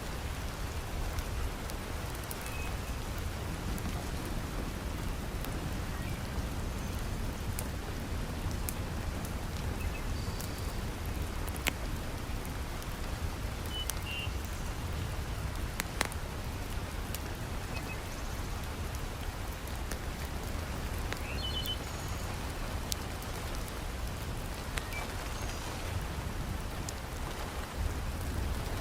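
Heavy rain falling steadily, with a few sharp pops from a crackling wood fire in a fireplace.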